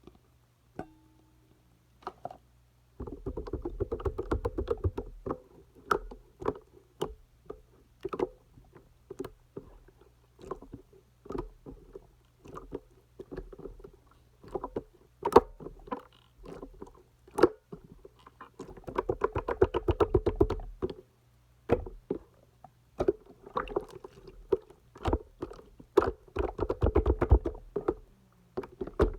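Clear slime being squished and pressed by hand, making sharp wet clicks and pops. Three times it breaks into longer runs of dense crackling air-bubble pops: a few seconds in, about two-thirds through, and near the end.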